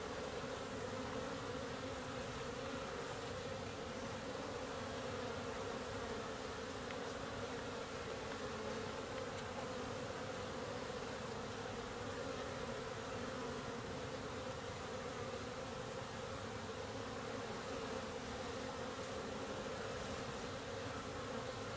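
Many honeybees flying around a beehive, their wingbeats making a steady, unbroken buzzing hum.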